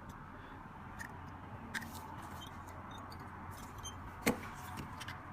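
A few small metal clicks and taps as a Zippo lighter's hinge is worked on by hand, the sharpest click about four seconds in, over a steady low background noise.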